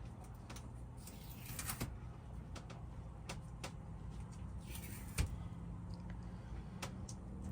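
Scattered clicks, light knocks and brief rustling of hands at work, with a sharper knock about five seconds in, over a steady low hum.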